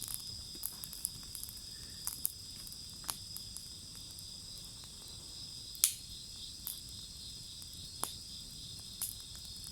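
Burning wood in a bonfire crackling with scattered sharp pops, the loudest about six seconds in, over a steady high trilling of insects.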